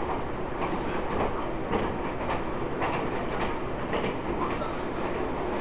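Running noise of a Taiwan Railways EMU800 electric commuter train at speed, heard inside the passenger car: a steady rumble of wheels on rail with faint irregular clicks.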